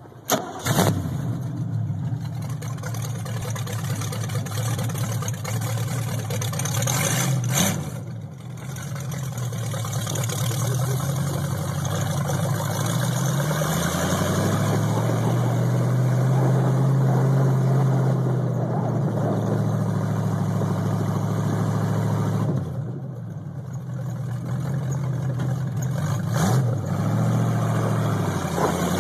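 A rat rod's V8 started with a dash starter button, catching within the first second, then running. Its revs climb slowly around the middle, hold high for a few seconds, fall back to idle, and rise again near the end.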